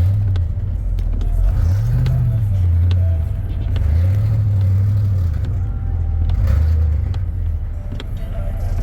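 Car engine running over a steady low rumble, its revs rising and falling in smooth swells about three times.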